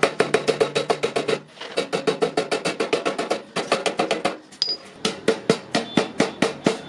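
Rapid hammer blows on iron at the anvil, about eight a second, each with a metallic ring, in several runs with short breaks between them.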